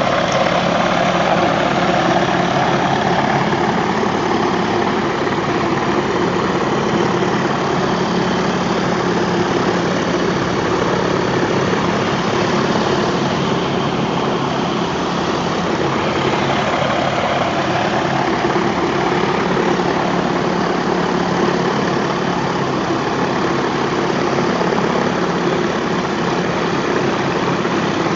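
Pressure washer rig running steadily: an engine hum under the hiss of a high-pressure cold-water spray on concrete.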